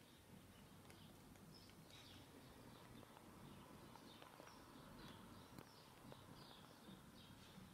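Near silence: low background hum with faint, scattered bird chirps, several short high calls every second or so.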